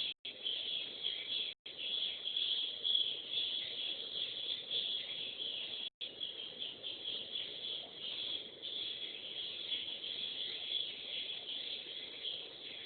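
Swiftlets twittering continuously in a dense, high chirping chorus, heard through a CCTV camera's microphone so the sound is thin. The sound cuts out completely for an instant three times, near the start, at about a second and a half, and about six seconds in.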